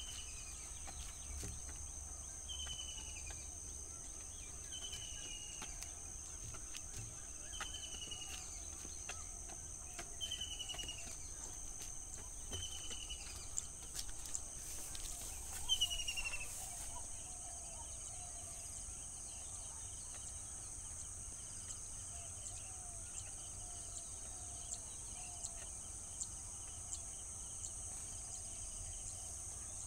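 Rural ambience: a bird repeats a short, falling whistled call about every two and a half seconds for the first half, then softer, lower calls follow, over a steady high-pitched insect drone.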